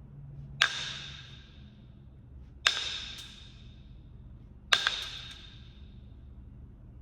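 Three percussion strikes on Kentucky hornstone, about two seconds apart, the last a quick double hit. Each leaves the stone with a clear, high ringing tone that fades over about a second.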